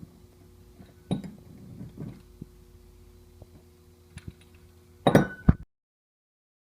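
Faint steady mechanical hum with a few knocks and clinks over it, then a loud clatter of knocks about five seconds in, after which the sound cuts off abruptly.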